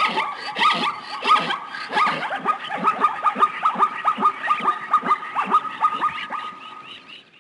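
An animal calling in a rapid run of short, repeated calls, about four or five a second, each dropping in pitch, fading out near the end.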